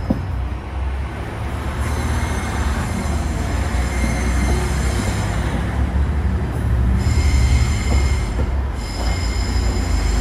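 DSB IC3 diesel multiple unit moving past along the platform, its engines giving a heavy low rumble, with a high-pitched wheel squeal that drops out twice and comes back.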